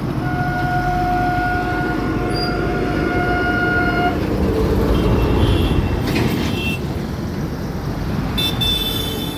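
Road traffic running, with a vehicle horn held for about four seconds, then shorter horn toots around the middle and near the end.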